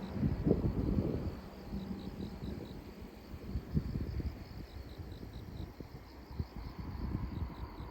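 Insects chirping in a quick, even pulse, with wind buffeting the microphone.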